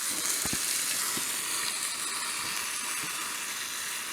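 Cornish game hen sizzling in a cast iron skillet: a steady frying hiss with a few small pops.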